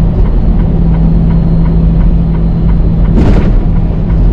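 Semi truck's engine and road noise heard inside the cab while driving: a steady low drone with a held engine tone. About three seconds in, a brief hiss cuts through.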